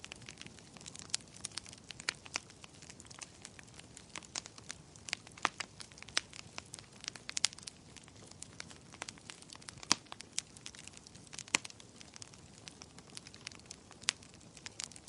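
Wood fire crackling in a fireplace: irregular sharp pops and snaps, some louder than others, over a low steady hiss.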